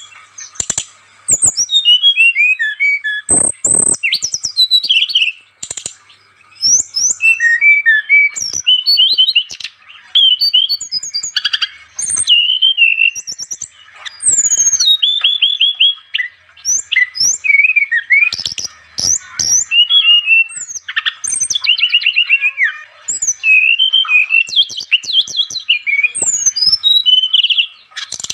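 Brown-chested jungle flycatcher (sikatan rimba dada coklat) singing vigorously: bursts of fast, varied whistled phrases, with rising and falling sweeps and quick trills, broken by short pauses.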